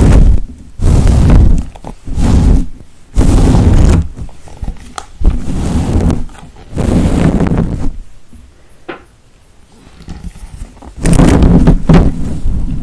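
A series of loud rubbing strokes right against the microphone, about one stroke a second, made as ASMR triggers. It goes quieter for a couple of seconds after about eight seconds, with one sharp click in that lull, then the strokes resume.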